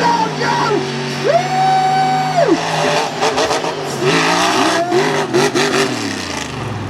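Mega truck engine revving hard: the pitch climbs and holds high for about a second before dropping, then rises and falls in several quick blips.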